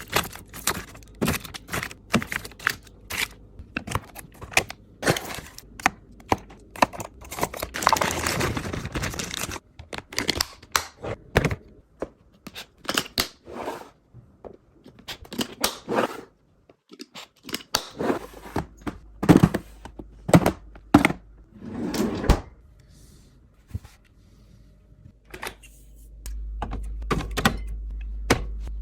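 Food packages and containers being handled and set down: a long run of irregular taps, clicks and thunks, with a rustling, rushing stretch about eight seconds in and another around twenty-two seconds.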